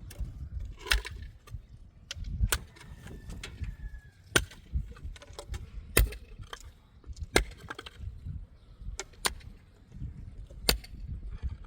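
Heavy hand-tool chopping strikes, one every second or two, with low rustling and shuffling between them.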